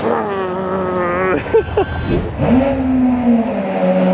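Lamborghini Aventador SVJ's V12 starting up: it fires suddenly and loud, flares, then settles about two and a half seconds in to a steady idle that drops a little in pitch near the end.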